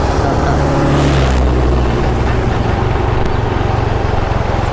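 Motorbike engine running while riding, with wind noise on the microphone; a heavier low engine rumble in the first second and a half eases off, leaving a steady drone.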